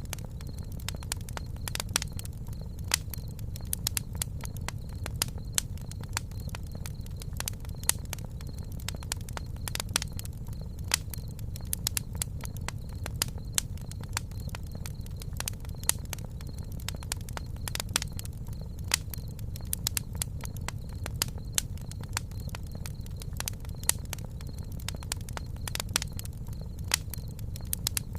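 Campfire crackling, with irregular sharp snaps and pops over a steady low rumble.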